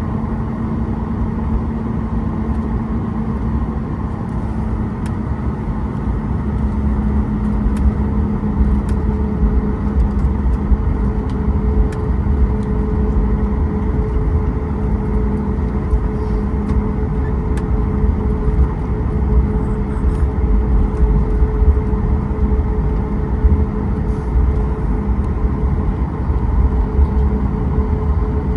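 Boeing 737 MAX 8's CFM LEAP-1B jet engines heard from inside the cabin: a steady hum with two held tones over a heavy low rumble, getting louder about seven seconds in and then staying at a high, steady level.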